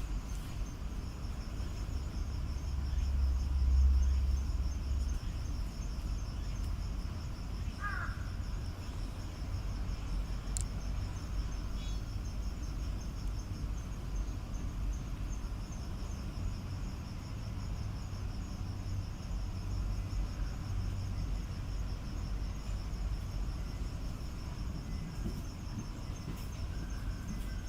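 Insects chirping in a steady, high, rapidly pulsing trill that pauses for a few seconds in the middle, over a constant low rumble. A single short chirp sounds about eight seconds in.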